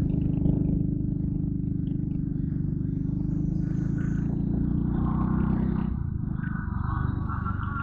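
Yamaha Crypton R underbone motorcycle's single-cylinder four-stroke engine running steadily while riding. About six seconds in the note changes: the deep hum eases and a higher sound comes up.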